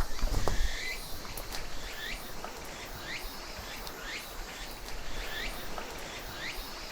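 An animal calling in a steady series of short rising chirps, about two a second, over an even background hiss. A little rustling is heard in the first second.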